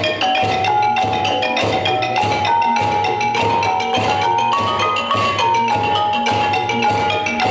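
Thai piphat ensemble playing: quick mallet strokes on xylophone-like instruments and steady drum beats under a melody of held notes that step up and down.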